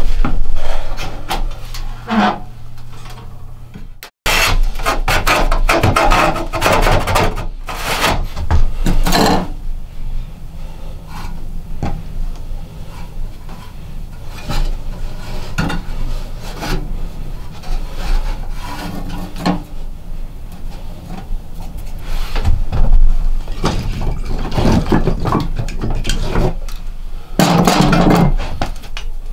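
Wood scraping, rubbing and knocking in irregular strokes, as wooden pieces are handled, with an abrupt cut about four seconds in.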